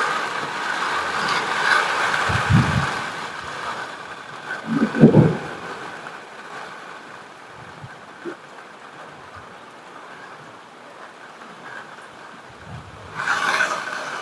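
Heavy rain hissing, with two short, low rumbles of thunder a couple of seconds apart. The rain eases about four seconds in and swells again near the end.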